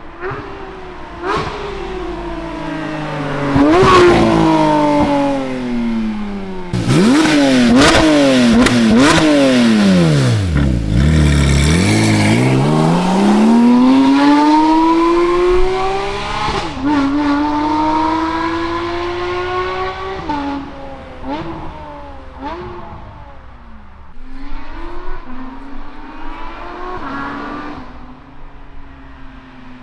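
Porsche 992 GT3 RS's flat-six through a full titanium valved race exhaust, driven hard: the engine note climbs, drops sharply at each gearshift, and climbs again, with a quick run of shifts partway through followed by long, steady climbs in pitch.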